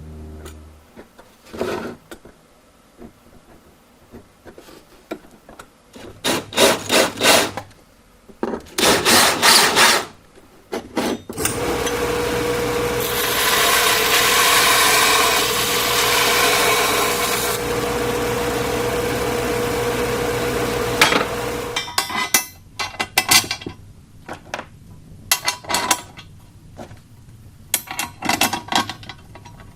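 Steel tabs being cut and shaped: bursts of rasping hand strokes, like a file or hacksaw on metal, and in the middle a power tool running steadily for about ten seconds as it grinds or cuts the steel, loudest in its first half.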